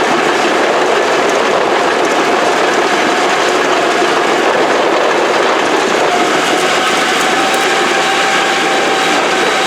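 A heavy diesel engine running steadily, loud and unbroken, with a faint whine that grows and climbs slightly in pitch from about six seconds in.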